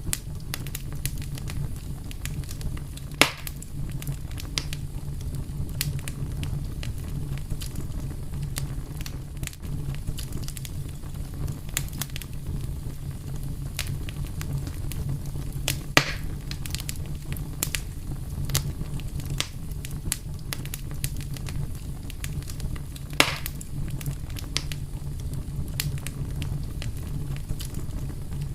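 Wood fire burning: a steady low rumble of flames under constant small crackles, with three louder pops about 3, 16 and 23 seconds in.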